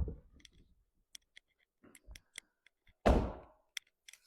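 A tape measure being handled: scattered light clicks and taps, with one louder clack about three seconds in.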